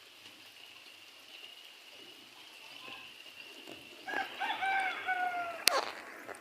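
A rooster crowing once about four seconds in, a multi-syllable crow ending on a drawn-out falling note, over a faint steady high tone. A single sharp knock follows just after the crow.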